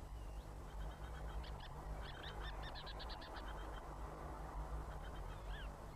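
A songbird singing short whistled phrases, with a quick run of about ten repeated notes around two seconds in, over a steady low hum and hiss.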